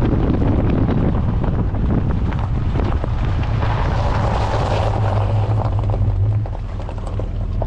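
A vehicle engine drones steadily under road and wind noise, heard from inside the moving vehicle. The engine note grows stronger around the middle, and the whole sound gets a little quieter near the end.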